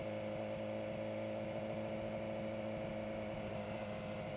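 Kawasaki Versys motorcycle engine running at a steady speed, a low, even hum with no change in pitch, over faint wind hiss.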